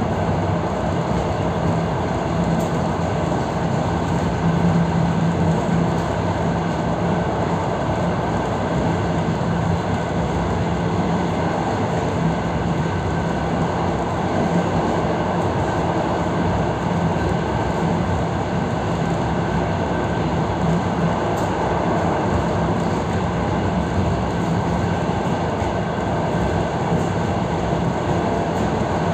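EP3D electric multiple unit under way, heard from inside the passenger car: steady rumble of wheels on rail with a constant low hum.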